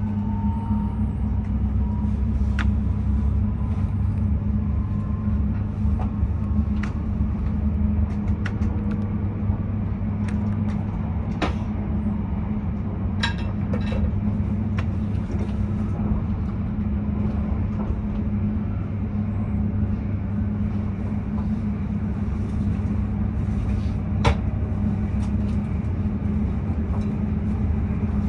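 Passenger train running at speed, heard from inside the carriage: a steady low rumble of wheels on rail, with scattered sharp clicks and knocks.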